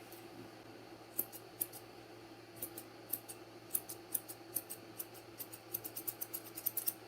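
Grooming scissors snipping dog hair: light, crisp snips, a few at first, then coming quickly one after another toward the end.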